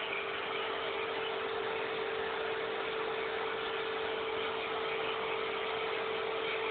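Alpino vacuum cleaner running steadily: an even rushing hiss with a constant motor hum.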